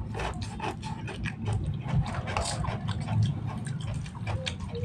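Close-miked chewing of fried instant noodles: many wet mouth clicks and smacks. Near the end, a metal spoon scrapes and stirs the noodles in the pan.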